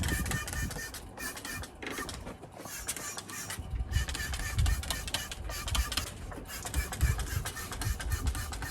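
Cleaner being sprayed onto a bicycle frame: a dense hissing, clicking spray broken by short pauses about a second, two seconds and four seconds in, with low handling bumps.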